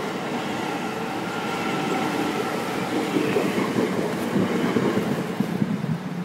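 Electric commuter train passing close by at speed: a steady rumble of wheels on rail, with rapid clattering over the rail joints that grows louder about halfway through.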